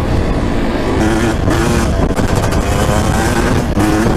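Suzuki RM250 single-cylinder two-stroke dirt bike engine running under way, its note wavering up and down a little.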